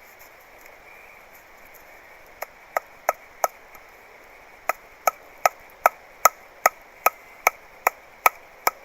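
Wooden stake being driven into the forest ground with sharp, ringing knocks. There are four quick strikes about two and a half seconds in, then, after a pause, a steady run of about eleven strikes at roughly two and a half a second.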